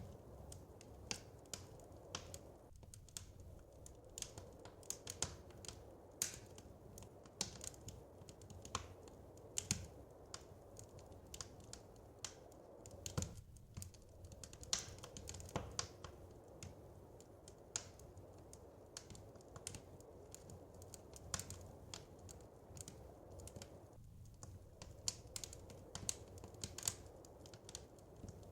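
Wood fire crackling in a fireplace: irregular sharp pops and snaps, a few louder than the rest, over a soft steady low rumble.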